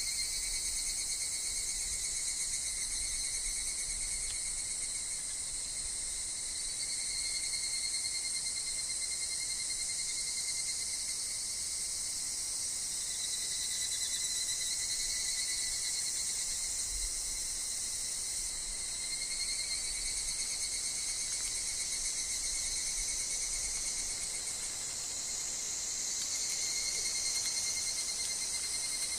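Steady chorus of cicadas and other insects, including higurashi (evening cicadas), a high-pitched drone in several layers that swells and fades slowly. Faint low wind rumble comes and goes underneath.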